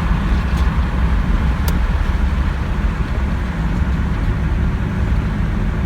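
1986 Jeep Cherokee's V6 engine running steadily under way, with tyre and road noise while driving.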